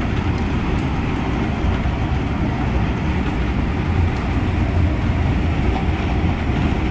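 MTR Tung Chung line CAF electric multiple unit running along the line: a steady, deep running noise that holds even throughout.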